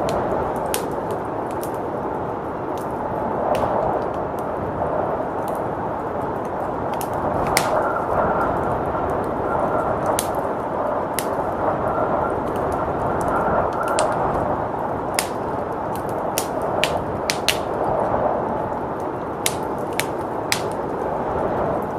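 Wood fire crackling, with sharp irregular pops, over a steady rush of blizzard wind.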